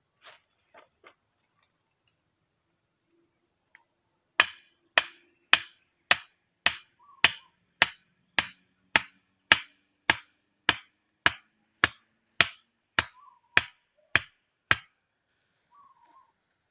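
A hand tool striking in a steady rhythm, about two blows a second and some nineteen in all, starting a few seconds in and stopping near the end, as in hammering or chopping during shelter building. A faint steady high insect-like tone and occasional soft chirps sit underneath.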